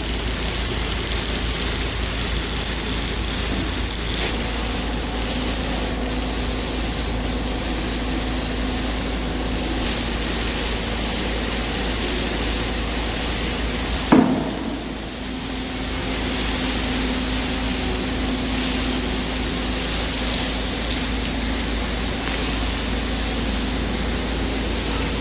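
Steady workshop machine noise with a low hum and a faint steady tone, broken by a single sharp knock about fourteen seconds in, after which the noise dips briefly and then builds back up.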